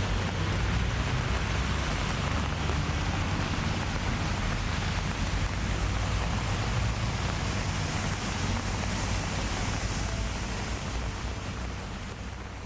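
Steady outdoor ambient noise with a low rumble, fading out near the end.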